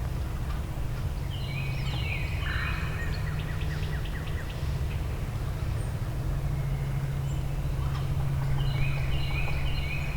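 Wild turkey gobbling twice, a rattling call about a second and a half in and again near the end, over a steady low hum.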